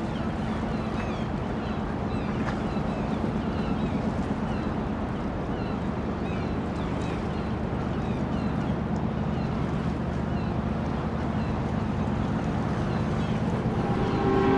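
Dockside ambience: a boat engine running steadily with a low hum, with faint bird chirps over it. A steady horn starts sounding just before the end.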